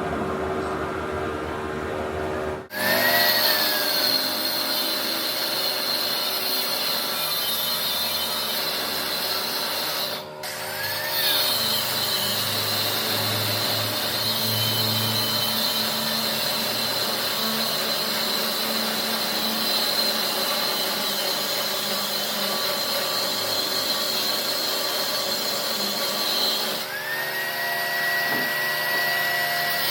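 Electric power tool running steadily with a high whine. It stops and restarts briefly twice, and its pitch rises and falls as it spins up.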